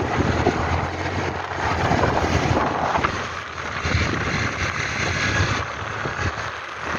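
A vehicle driving along a road: steady engine and road rumble with wind buffeting the microphone.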